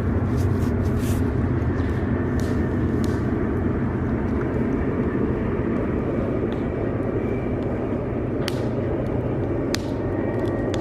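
Steady low rumble of heavy diesel engines, with sharp crackles and pops from a wood campfire scattered through it, a cluster early on and single loud pops about eight and a half and ten seconds in.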